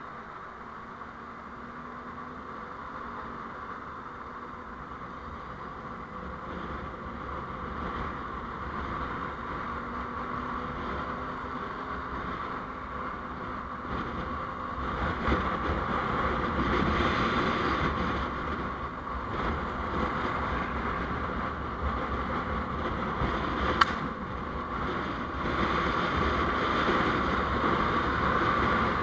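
Steady road and engine noise of a vehicle being driven, picked up by its on-board recorder, growing louder as it gathers speed, with one sharp click a few seconds before the end.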